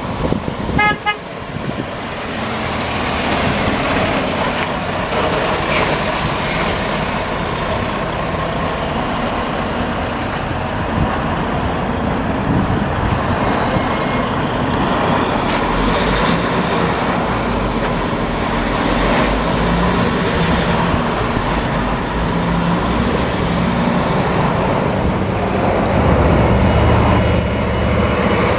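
Heavy dump trucks passing on the road, with steady diesel engine and tyre noise that builds a couple of seconds in and swells again near the end. A short horn-like toot sounds about a second in.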